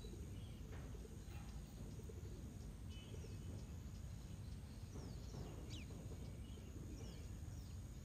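Small wild birds chirping faintly, with several short calls and quick falling notes, mostly in the middle and latter part, over a steady low background rumble.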